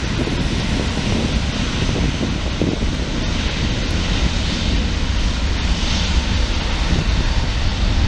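Jet engines of a wide-body airliner passing close by: a loud, steady rushing noise with a higher hiss that swells in the middle.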